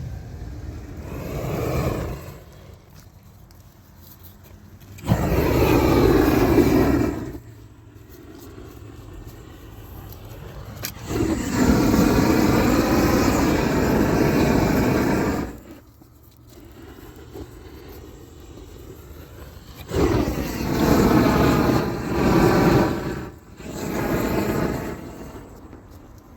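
Gas torch roaring in three long bursts with quieter gaps between, as used to heat and stick down isogam bitumen waterproofing membrane.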